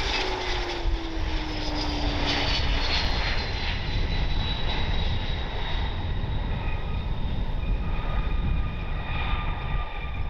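Engines of a Dassault Falcon business jet passing on approach to land: steady jet noise with whining tones, one falling in pitch over the first few seconds.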